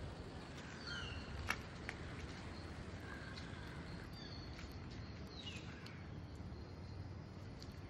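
Birds chirping now and then: short, high calls, a few of them falling in pitch, over a steady outdoor hiss. A single sharp click comes about a second and a half in.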